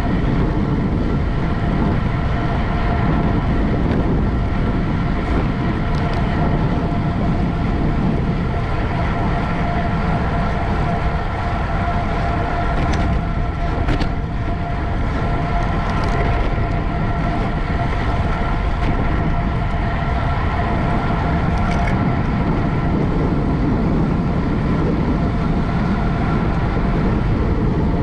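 Steady wind rush over the microphone of a road bike ridden at race speed, with a constant hum from the tyres and drivetrain under it.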